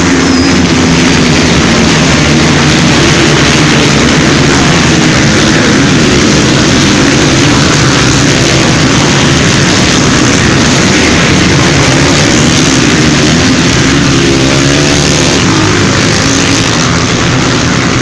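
A large pack of off-road racing motorcycles passing at full throttle just after the race start, many engines blending into one loud, continuous sound that eases slightly near the end.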